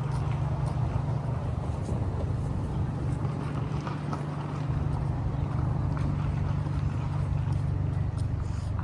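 City street traffic: a steady low engine drone from nearby motor vehicles over a wash of traffic noise.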